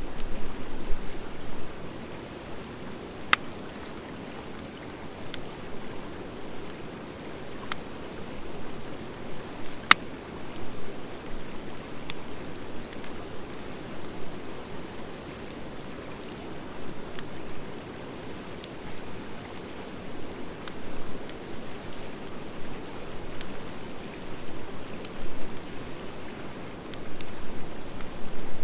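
Wood fire of driftwood and dry hardwood logs burning, a steady rushing hiss with scattered sharp crackles and pops every few seconds.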